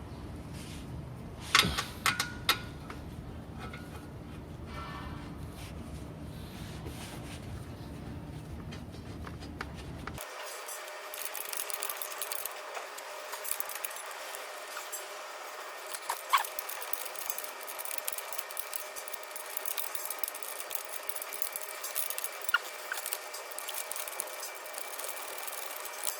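Hand tools and steel bolts clinking and knocking as a new brake caliper bolt is fitted, with a few sharp metallic knocks over a steady background.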